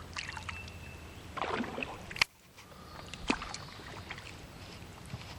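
A canoe moving on a river: water noise with scattered light knocks and clicks on the hull. A sharp click a little after two seconds in, after which the sound drops suddenly.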